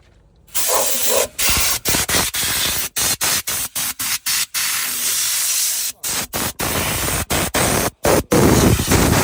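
High-pressure cleaning spray hissing in many short bursts that start and stop abruptly, about half a second in and then repeatedly throughout.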